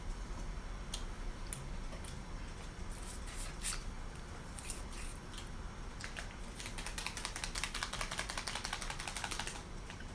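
Close-miked eating sounds: scattered wet mouth clicks while chewing barbecue. Near the end comes a run of fast crackly clicks lasting about three seconds.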